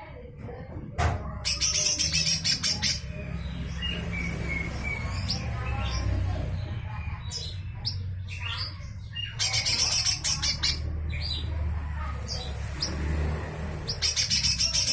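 Cucak hijau mini, a small leafbird, giving harsh rasping 'besetan' calls. There are three bursts of rapid strokes, each about a second or more long: one about a second in, one in the middle, and one at the end. Short whistled notes and chips come between the bursts.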